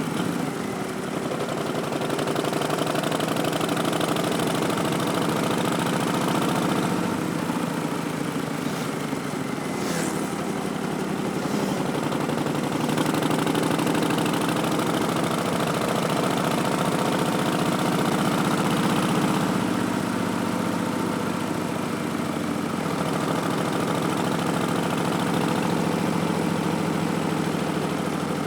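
2019 Harley-Davidson Street Bob's Milwaukee-Eight V-twin, breathing through Vance & Hines Twin Slash slip-on mufflers and an Arlen Ness Big Sucker intake, running under way, its engine speed rising and falling gently with the throttle.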